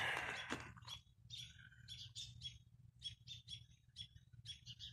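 Small birds chirping faintly in groups of short, quick, repeated high notes, over a faint steady low hum.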